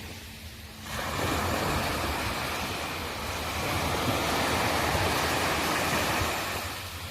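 Sea waves breaking and washing up the shore. A surge of surf noise swells about a second in, holds, and eases off near the end, over a steady low rumble.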